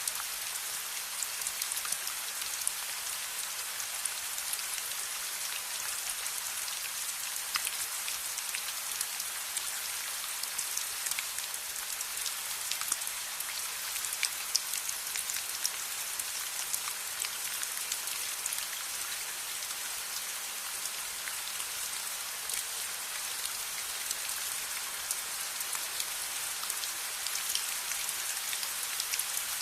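Steady rain: an even hiss of falling rain with many small sharp drop ticks scattered through it.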